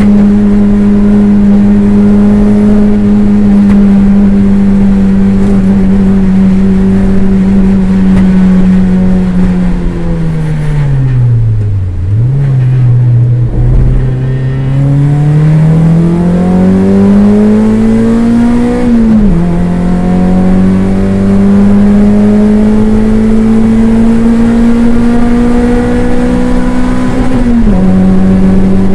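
Toyota MR2 race car's engine heard loud from inside the car, running hard at high revs. About a third of the way in the revs fall away steeply, as under braking for a corner, then climb in two long steady rises, each cut short by a sudden drop at an upshift, the second near the end.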